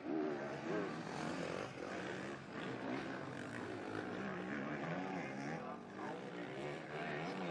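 Motocross bike engine revving hard on the track, its pitch rising and falling as the throttle is opened and closed.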